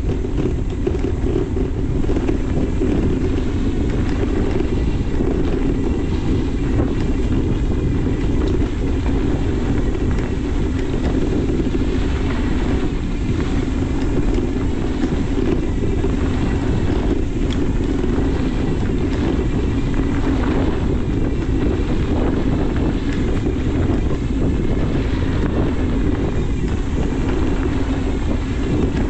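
Steady wind buffeting on the microphone and tyre rumble from a mountain bike rolling along a dirt trail.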